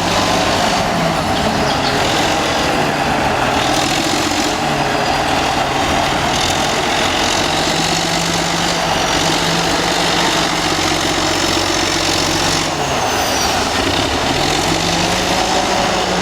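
Old Caterpillar D8 bulldozer's diesel engine running steadily, its note dipping and coming back up a couple of times in the last few seconds.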